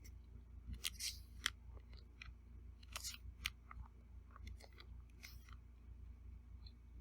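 Eating sounds: a run of small sharp clicks and crunches from cutlery and chewing, bunched in the first five seconds or so.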